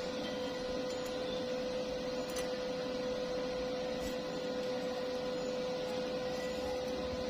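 A steady machine hum at one fixed pitch, unchanging throughout, with a few faint clicks.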